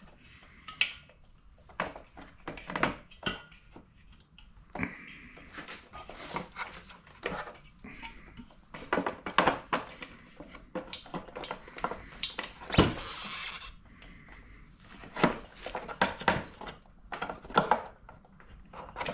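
Metal compressor parts being handled and fitted back together by hand: irregular clicks, clinks and knocks, with one louder knock and a short rasp about two-thirds of the way through.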